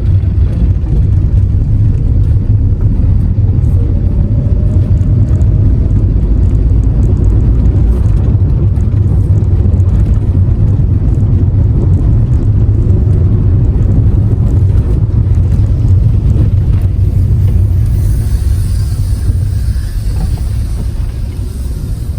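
Suzuki Cultus hatchback being driven, heard from inside the cabin: a steady, heavy low rumble of engine and road noise. A faint rising whine comes in a few seconds in, and near the end a thin hiss joins while the rumble eases slightly.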